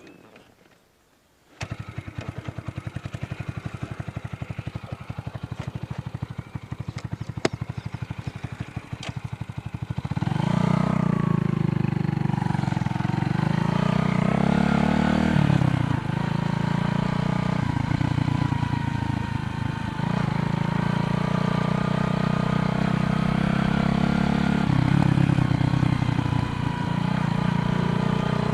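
Motorcycle engine starting up suddenly and idling with a steady rapid pulse, then pulling away and accelerating. Its pitch rises and drops back several times as it shifts up through the gears.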